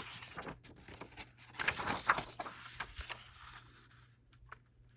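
Paper and card being handled: irregular rustling and sliding of sheets with a few light taps, busiest about two seconds in and dying away near the end.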